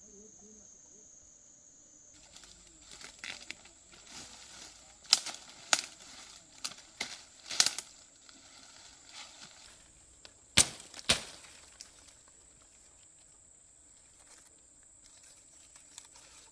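A steady high insect drone, then, about two seconds in, a run of sharp rustles and snaps, with the loudest cracks around five to eight seconds in and a close pair near eleven seconds.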